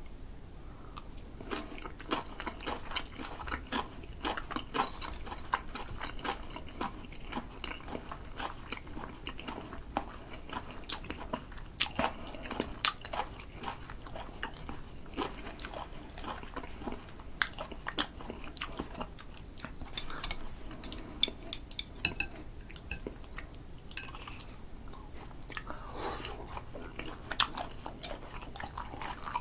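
Close-miked mouth sounds of chewing grilled sea eel in a spicy glaze, topped with pickled ginger slices: a steady run of sharp, wet clicks and bites.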